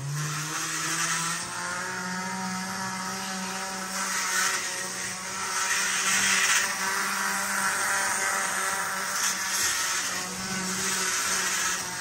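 Athearn model locomotives running under power: a steady electric motor and gear whine with a grinding noise that swells and fades. The grinding comes only from powered running, not from the mechanism being pushed by hand.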